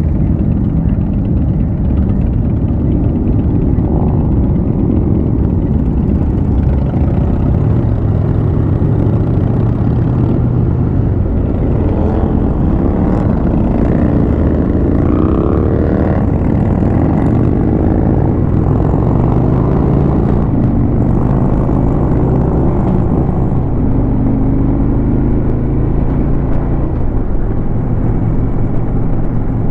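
Harley-Davidson Road King's V-twin engine running under way, with rushing wind noise. The engine note rises and falls several times in the middle and again later as it changes speed.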